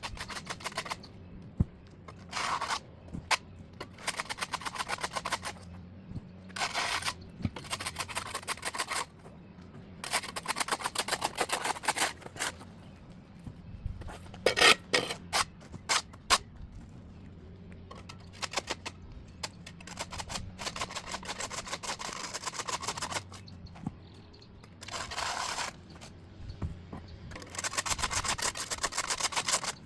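A hand tool scraping over pavement in repeated strokes about a second or two long, each a rapid rattling scrape, while clearing overgrown grass and dirt from an edge.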